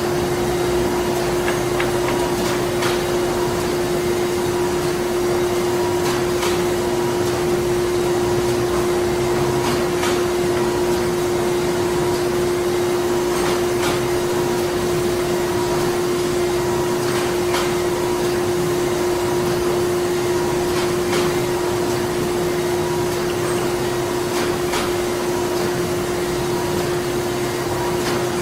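Printing-plant machinery running: a steady drone with a strong constant hum over a haze of mechanical noise. Faint clicks recur every few seconds.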